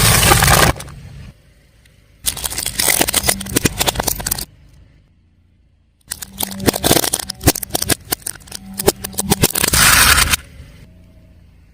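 Car tyre rolling over and crushing crunchy objects: dense crackling and snapping over the car's low engine hum. It comes in three bursts that start and stop abruptly, with quiet gaps between.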